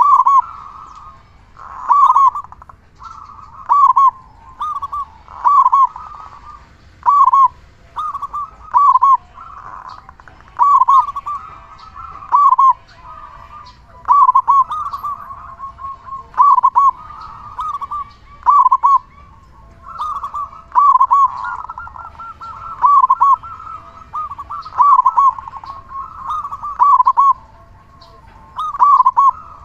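Zebra doves (perkutut) cooing: loud, short rolling coos repeated about once a second, with fainter cooing between them.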